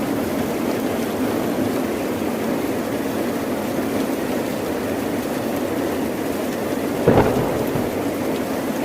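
Steady heavy rain, with a sudden short thunderclap about seven seconds in that fades over the next second.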